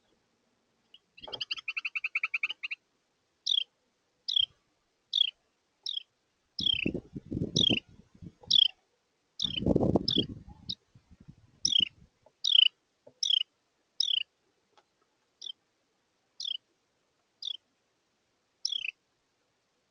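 A Carolina wren's fast, buzzy chatter, then a long series of sharp, quickly falling call notes, about one or two a second. Twice in the middle come short bouts of low thumping and rustling.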